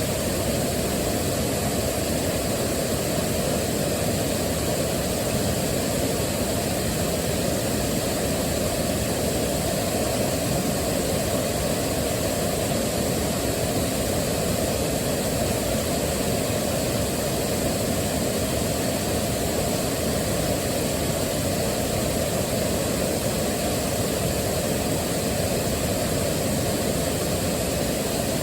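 Waterfall: a steady, unbroken rush of falling water, heaviest in the deep range.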